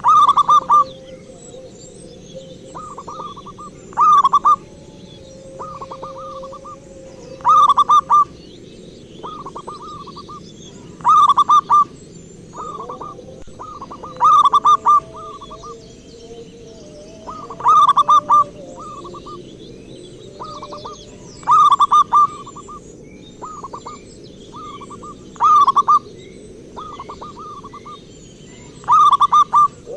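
Zebra dove (perkutut) cooing in short, stuttering phrases, a loud one about every three and a half seconds with softer phrases between them: a lure call used to draw in wild zebra doves.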